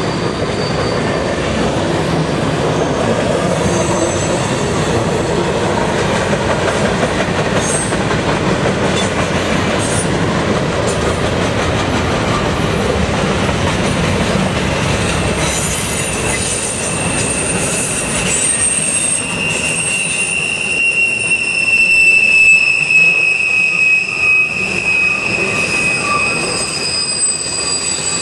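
Covered grain hopper cars of a freight train rolling by on a curve, the wheels rumbling steadily on the rails. From about sixteen seconds in, the wheel flanges squeal against the curved rail in high, drawn-out tones that drift slowly in pitch and are loudest a few seconds later.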